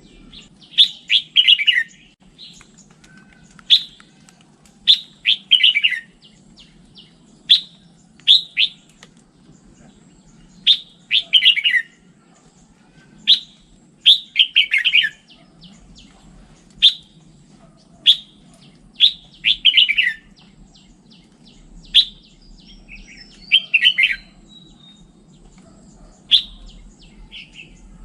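Red-whiskered bulbul singing: short, bright, warbled phrases repeated every one to three seconds.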